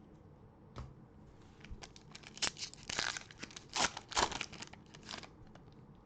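Plastic wrapper of a football trading card pack being torn open and crinkled, a run of sharp crackles and tearing lasting a few seconds.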